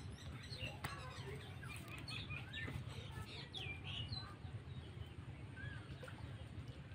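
Birds chirping and calling in short, scattered rising and falling notes, over a steady low rumble.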